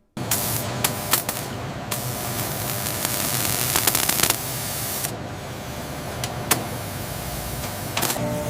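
Factory machinery running: a steady loud hiss like spraying air or coolant over a low hum, with scattered sharp clicks and knocks. It cuts in suddenly at the start.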